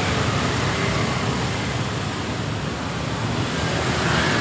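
Road traffic noise: a steady rumble of vehicles passing by.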